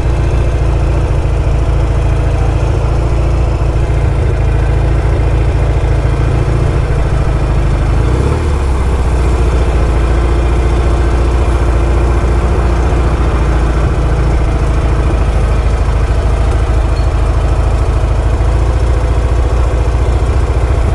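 1974 Norton Commando 850's parallel-twin engine idling steadily, with a brief dip in its note about eight seconds in.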